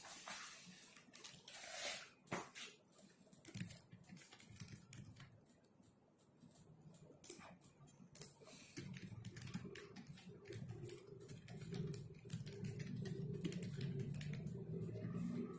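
Typing on a computer keyboard: quick, irregular key clicks. From about halfway through, a low steady hum comes in underneath and the sound grows louder.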